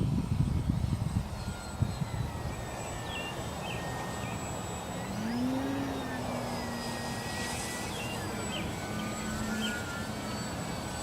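Electric motor and propeller of a ParkZone F4F Wildcat RC plane humming in flight. The pitch rises about five seconds in, then holds steady. Gusty wind rumbles on the microphone at the start and end.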